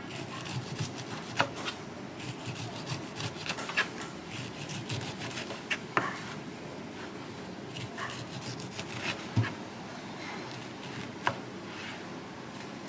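Kitchen work: scattered knocks and scraping of utensils over a steady background noise, with a few sharper knocks standing out.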